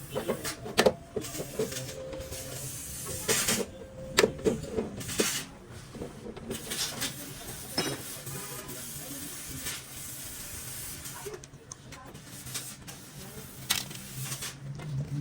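Workshop work sounds: scattered knocks and clicks with a few short bursts of hiss, over a low steady hum.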